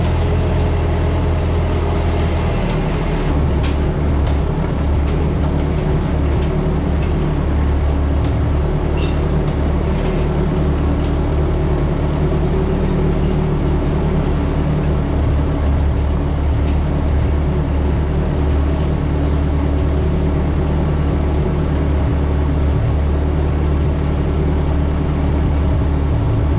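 Heavy vehicle engine running steadily with a low, even hum, its note shifting slightly about three seconds in.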